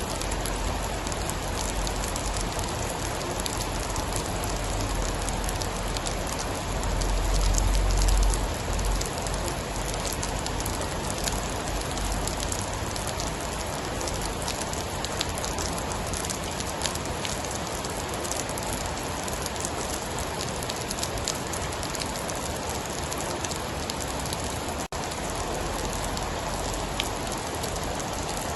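Steady heavy rain falling, an even hiss with scattered drop ticks. About seven seconds in, a low rumble of distant thunder swells, peaks briefly and fades back under the rain.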